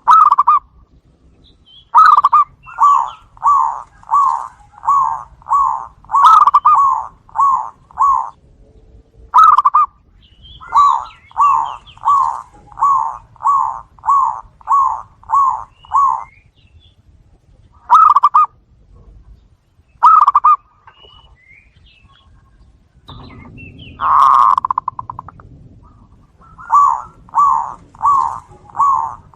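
Zebra doves (perkutut) cooing: phrases of about eight to ten short, rhythmic coos, roughly one and a half a second, separated by brief pauses, with a few single coos in between.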